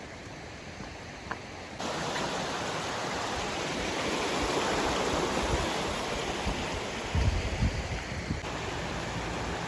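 Rushing water of a stream, a steady hiss that comes in abruptly about two seconds in, with a few low thumps near the end.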